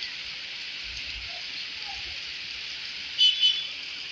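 Steady rain falling, an even hiss, with two short high-pitched chirps about three seconds in.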